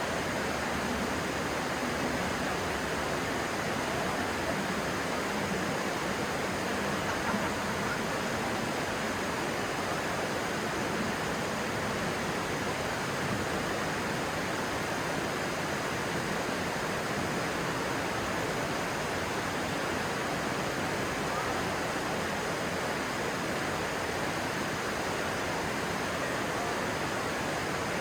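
Stream water flowing steadily, an even, unbroken wash of sound.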